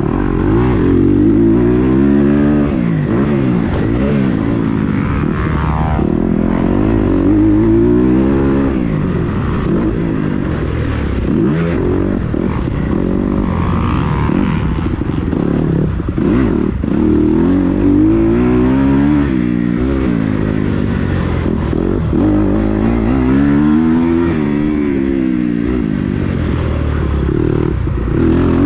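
Kawasaki KX250 motocross bike with an FMF exhaust being ridden on a track, its engine revving up and dropping back over and over as the rider accelerates and backs off, the pitch rising and falling every few seconds.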